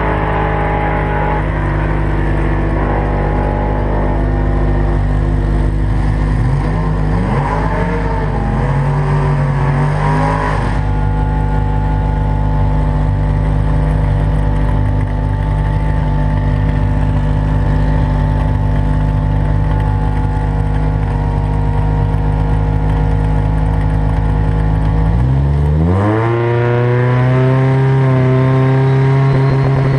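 Drag car's engine idling steadily, its pitch wavering briefly about a third of the way in. Near the end it revs up sharply and holds a steady higher rpm.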